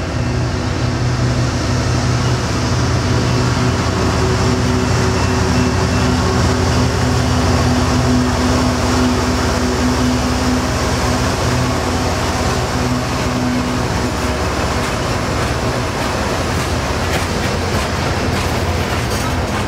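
Diesel-electric freight locomotive, a GE ES44AC, running as it rolls slowly past; its steady engine drone fades about two-thirds of the way through as it goes by. It gives way to the rumble of freight cars rolling on the rails, with clicks of wheels near the end.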